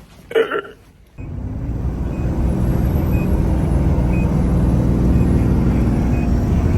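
A short burst of a voice, then, a little over a second in, a vehicle's engine and road noise heard from inside the cab: a steady low rumble, with a faint high beep about once a second.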